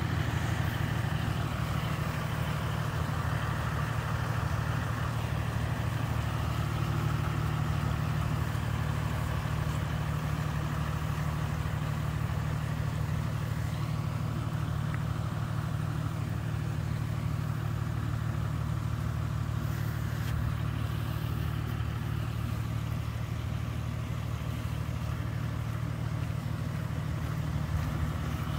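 Car driving: a steady low engine and road hum that holds even throughout.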